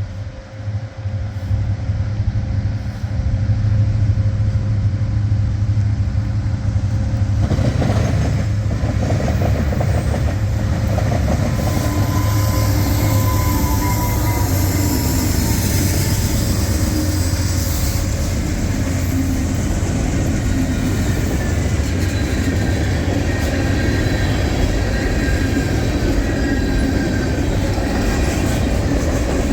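Diesel-hauled freight train passing close by: a steady low locomotive engine rumble, then from about seven seconds in the rolling noise of the cars with wheels clacking over the rail joints and thin high-pitched wheel squeal.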